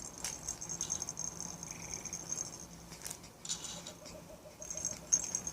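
Fisher-Price Rainforest play mat's electronic nature sounds playing faintly: a high chirring of insects that comes and goes, with a low pulsing croak near the end. A few soft rustles and knocks from the toys being handled come about three seconds in.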